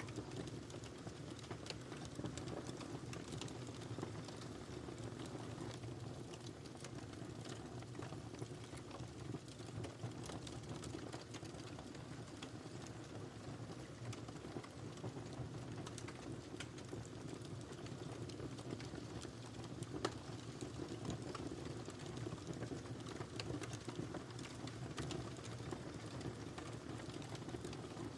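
Firewood burning in a fireplace: a steady low rush of flame with frequent small crackles and pops, one sharper pop about two-thirds of the way through.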